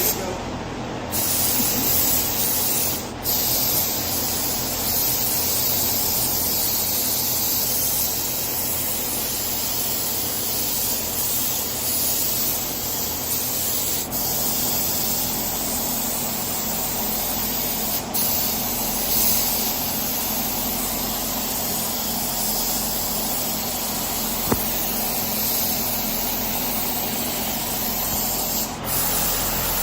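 Paint spray gun hissing steadily as a coat of paint is sprayed, with a few brief breaks in the spray. A low steady hum runs underneath.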